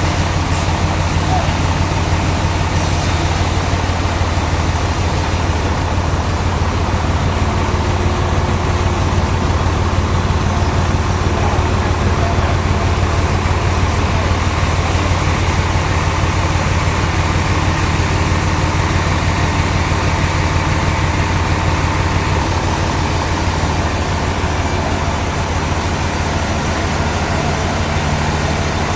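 Sawmill machinery running steadily: a loud, constant low engine-like hum that does not change.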